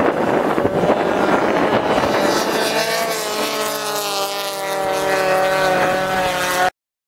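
Race car engines running hard on an ice track, first as a rushing mix of engine and wind noise, then one engine held at high, steady revs as it passes close. The sound cuts off suddenly near the end.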